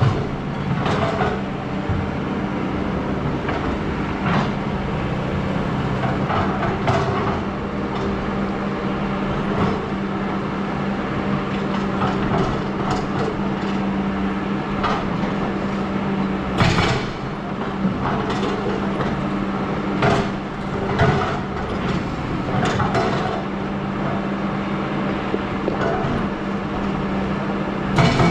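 Excavator's engine running steadily, with scattered knocks and clanks as the machine works; the sharpest clanks come about two-thirds through and near the end.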